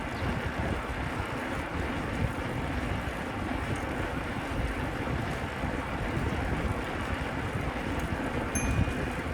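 Steady rush of wind buffeting the microphone of a camera on a moving bicycle, heaviest in the low end. A brief faint high squeak sounds near the end.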